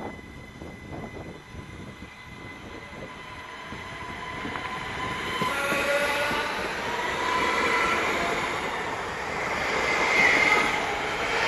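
ÖBB CityJet electric multiple unit running past close by along the platform, its rumble and wheel noise growing louder from about four seconds in. Several high whining tones, some sliding in pitch, ride over it, loudest near the end.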